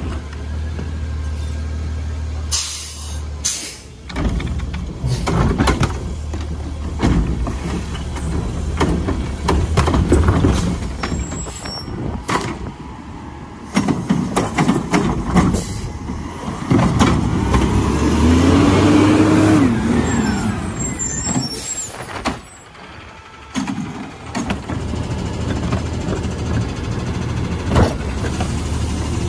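Garbage truck at work: its diesel engine runs with a low steady hum, and air brakes hiss briefly about three seconds in. Irregular clattering and mechanical noise follows, with a pitched whine that rises and then falls about two-thirds of the way through.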